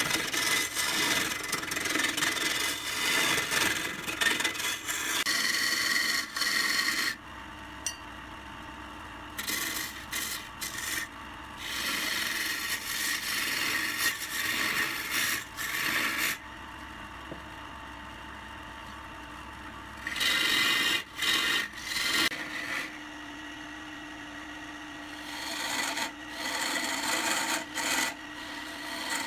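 Wood lathe running while a turning tool works the spinning wood, a dry rasping scrape that comes in several long passes of a few seconds each, with quieter gaps between them where only the lathe's steady hum remains.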